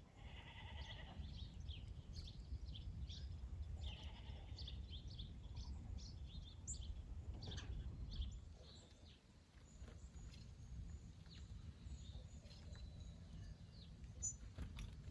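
Faint goat bleats, with many short bird chirps scattered throughout, over a steady low rumble.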